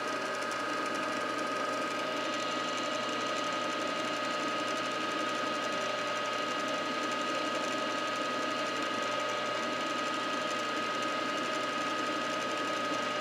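Milling machine motor and spindle running steadily with a high whine, turning a starter drill to begin a number 7 drill hole in the part.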